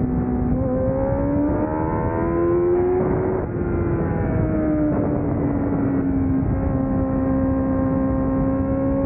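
600cc race motorcycle engine running hard, its pitch rising over the first three seconds, dipping briefly a little after three seconds in, then easing down and holding steady, over a constant rushing noise.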